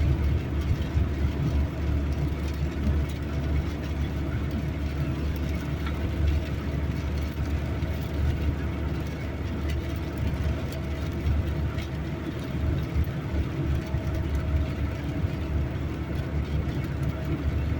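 Steady road and engine noise of a car driving on a highway, heard from inside the cabin as a low, even rumble.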